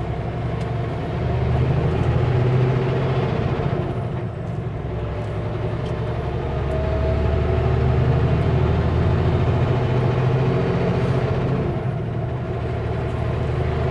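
Kenworth W900L semi truck's diesel engine pulling a heavily loaded Super B trailer set. The engine note builds, eases off about four seconds in, builds again, and eases once more near the end, with a faint high whine rising and falling along with it.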